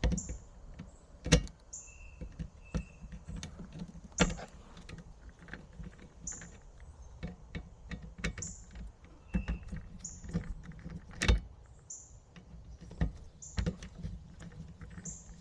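Irregular clicks and knocks of tools and metal parts being handled during HVAC installation work, with a few sharp, louder knocks about a second in and again near the eleven-second mark.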